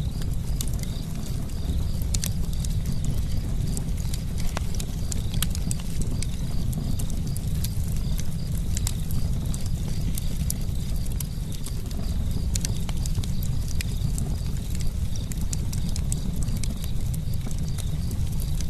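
Campfire crackling: many irregular pops and snaps of burning wood over a steady low rumble of flames.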